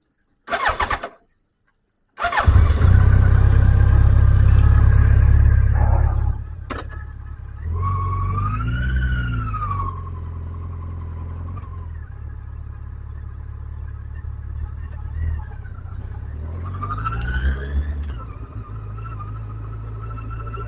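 Motorcycle engine being started: a brief crank, then it catches about two seconds in and runs at a fast, loud idle before dropping to a steadier idle about six seconds in. Twice its pitch rises and falls smoothly as it is revved or pulls away.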